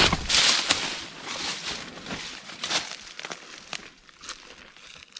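Footsteps crunching and rustling through forest leaf litter at a walking pace, roughly a step every half-second or so, growing fainter and sparser in the last couple of seconds.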